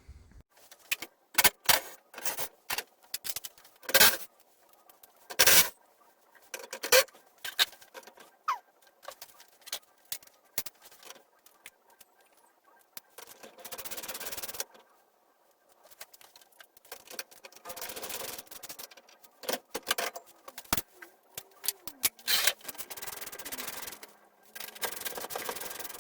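Hardware being unscrewed from a wooden garage door: scattered clicks and knocks of tools and metal parts, then several scraping, rubbing stretches of a second or two each.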